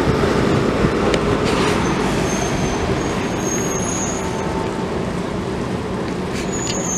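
Amtrak Downeaster passenger train rolling by: a steady rumble that slowly fades, with faint high-pitched squeals twice.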